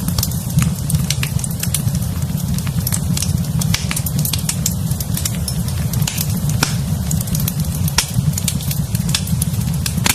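Fireplace fire crackling: frequent sharp, irregular pops and snaps over a steady low rumble of the flames.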